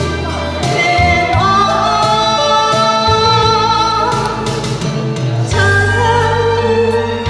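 A singer performing a Korean trot song over an amplified karaoke backing track, holding long notes.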